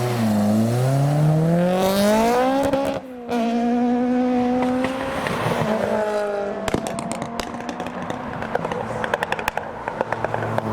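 A car engine accelerating hard: the note climbs steadily for about three seconds, breaks briefly at a gear change, holds at a higher pitch, then eases off. Over the last few seconds comes a rapid run of sharp crackles.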